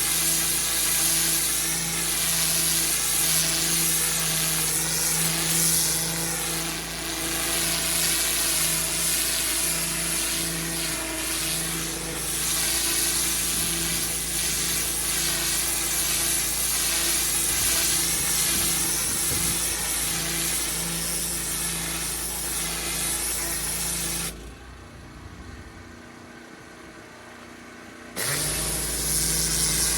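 Pressure washer running, a steady motor hum under the hiss of the water jet on block paving. Near the end the sound drops away for about three seconds, then comes back at full level.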